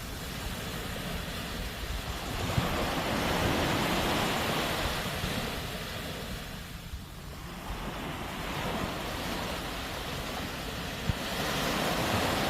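Sea waves breaking and washing up the shore. A wave swells in about two seconds in and ebbs about seven seconds in, and another builds near the end.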